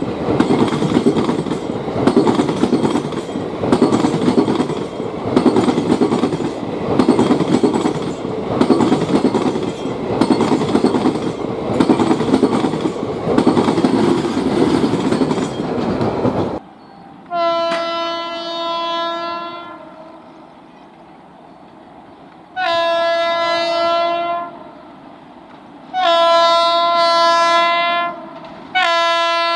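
Freight train wagons rolling past close by, their wheels clattering over rail joints about once a second, until the sound cuts off suddenly about two-thirds in. Then a WAG-9 electric locomotive's horn sounds four blasts, each a second or two long, the last still going at the end.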